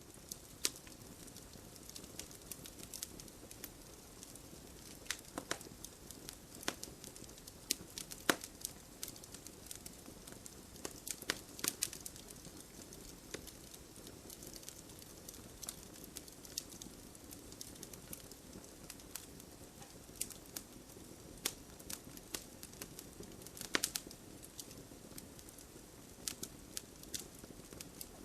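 Wood fire burning in a fireplace, crackling steadily with frequent sharp, irregular pops over a low hiss.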